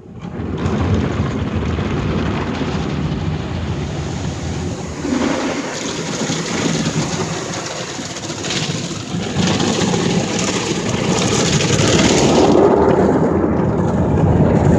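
Ryko SoftGloss Maxx 5 automatic car wash in its top-brush cycle: the spinning cloth brush and the water spray wash over the truck, heard from inside the cab as a loud, steady rushing rumble that swells and eases.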